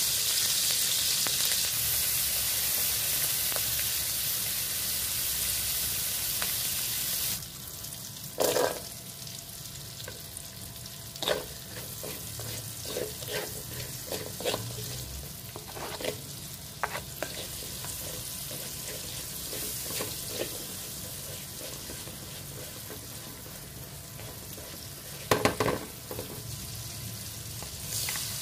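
Salted fish frying in oil in an aluminium wok, a loud sizzle that cuts off sharply about seven seconds in. After that come a quieter sizzle of shallots, garlic and chillies and several sharp, ringing knocks and scrapes of a spatula against the wok, the loudest about eight seconds in and near the end. Water starts pouring into the hot wok right at the end.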